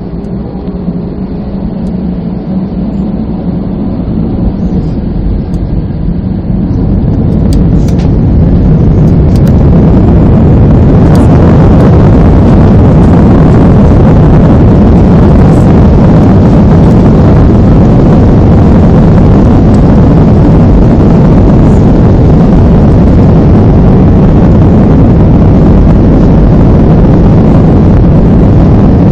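Jet airliner's engines spooling up to takeoff thrust: a roar that grows steadily louder over about the first ten seconds, then holds steady and loud through the takeoff run.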